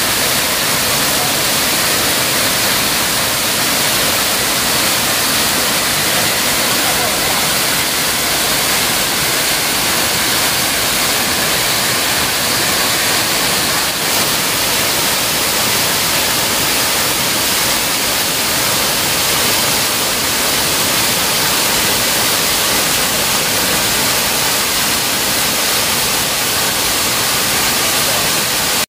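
Waterfall: a steady, loud rush of falling water that cuts off suddenly at the end.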